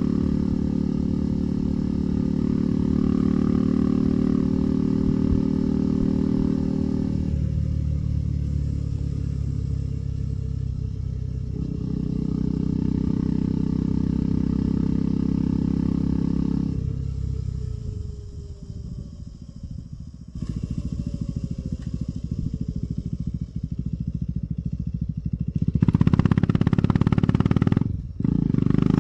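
KTM 390 Adventure's single-cylinder engine running under way, easing off and picking up again several times. It drops to a quiet coast with falling revs about two-thirds in, then gets louder under acceleration near the end, with a brief cut just before the end that fits a gear change.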